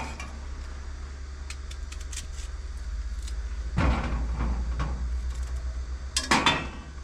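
A dog chewing and eating pieces of peach: faint wet clicks, with two louder rustling bursts about four and six seconds in, over a steady low hum.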